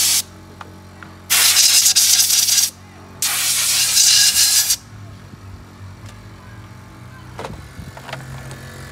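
Compressed-air blow gun blasting air to blow clean a washed steering shaft universal joint, in three loud hissing bursts. The last two each last about a second and a half with a short gap between them, then a steady low hum remains.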